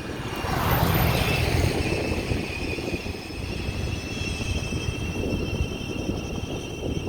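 Wind rumbling on the microphone over vehicle noise, with a rushing swell about a second in and a steady high-pitched whine from about two seconds in.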